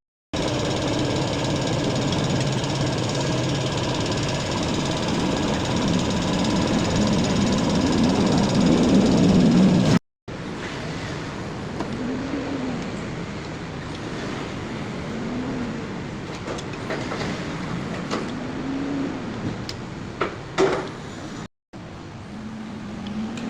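A Jeep engine running after installation, growing louder and rising in pitch, then in later clips revved in short blips every few seconds, with a few clicks near the end.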